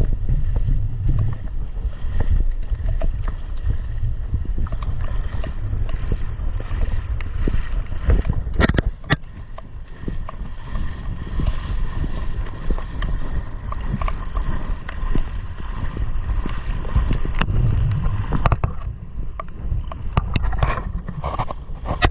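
Wind buffeting the microphone over a steady rush of river water, with a few sharp knocks about nine seconds in and again near the end.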